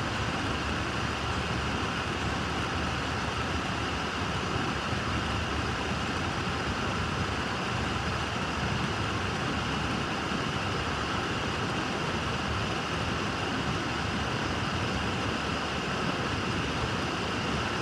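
Local freight train rolling past a grade crossing, a steady, even rumble and rattle of the train going by.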